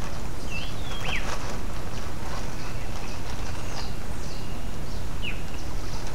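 A few short bird chirps, one falling chirp about a second in and another near the end, over a steady low noise.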